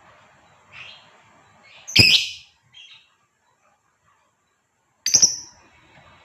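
Female lovebird giving short, high-pitched chirping calls: a faint one, then a loud one about two seconds in, a brief one after it, and a loud double call near the end, with silent gaps between.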